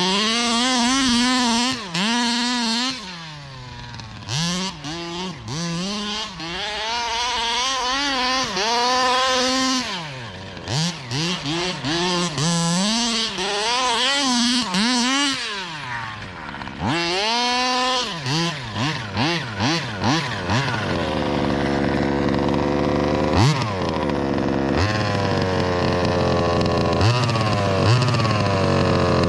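Zenoah G320RC 32cc two-stroke engine of a Baja 5b RC car revving in repeated throttle blips, dropping back toward idle between them, with a string of short quick blips about halfway through. In the last third it climbs and is held at high, nearly steady revs.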